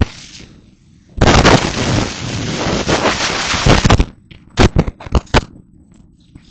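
Loud rushing noise buffeting the microphone for about three seconds, followed by several short blasts, the kind of overload gusts of wind and waterfall spray cause. It starts with a sharp click.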